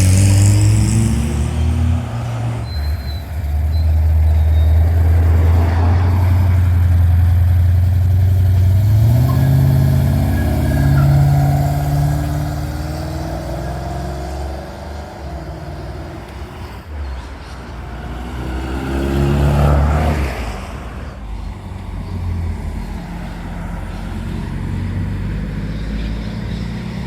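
Car engines pulling away with a deep, steady note. The engine pitch rises as a car accelerates about nine seconds in, and again near twenty seconds in.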